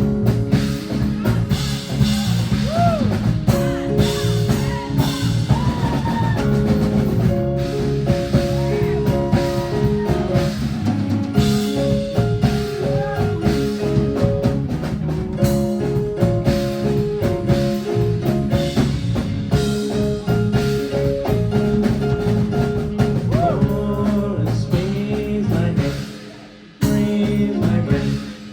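Live rock band playing an instrumental stretch of a song: a drum kit keeping a steady beat under sustained, sliding guitar notes. The band cuts out briefly near the end, then comes back in.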